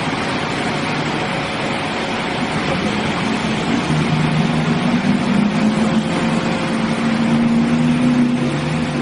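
Heavy truck engine running steadily under a loud rushing noise, its hum growing steadier and clearer about three seconds in.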